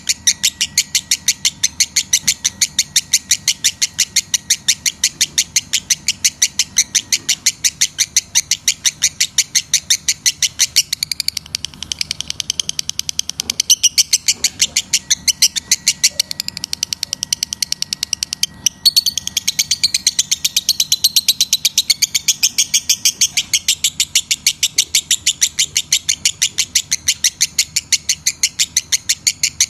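Lovebird chirping in a fast, even stream of sharp high chirps, about five a second, with a brief break about two-thirds of the way through. A faint steady hum runs underneath.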